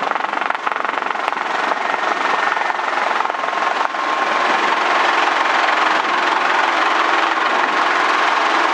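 Schweizer S300 CBi helicopter in flight: its four-cylinder piston engine and rotors running with a steady, even drone, heard from inside the cabin.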